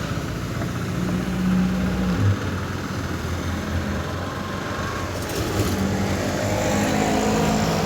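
Road vehicle engines running at low speed, a steady low engine hum that shifts in pitch a little as the vehicles move.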